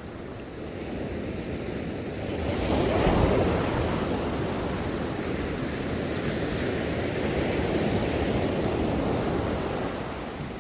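Ocean waves breaking on a shore: the surf swells to its loudest about three seconds in, then keeps washing steadily before easing near the end.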